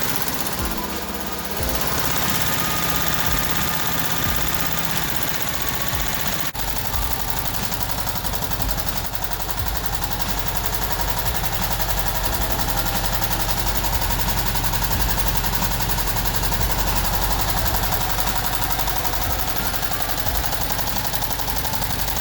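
Air-cooled VW 36hp flat-four engine running steadily with a rapid, even clatter. Its sound changes about six and a half seconds in and is lower and fuller afterwards.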